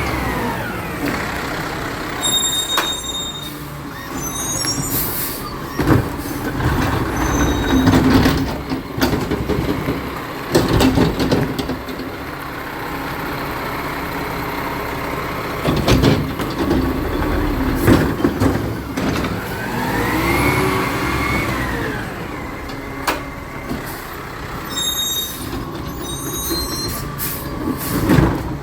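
Recycling collection truck at work: its engine revs up and falls back twice, with a series of sharp knocks and bangs from the collection in between.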